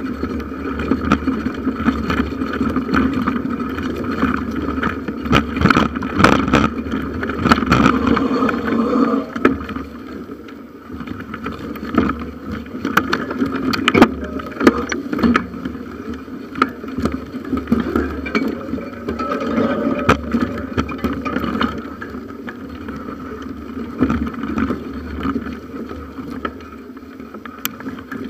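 Bicycle riding along a forest trail, heard from a handlebar-mounted camera: continuous tyre and riding noise with frequent rattles and knocks over bumps, and wind on the microphone.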